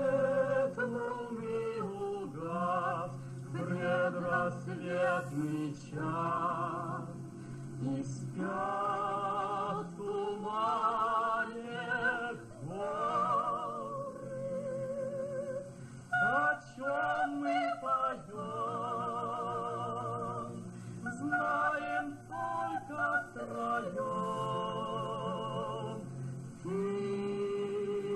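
Song: a singing voice with strong vibrato, phrase after phrase, over a steady sustained instrumental accompaniment.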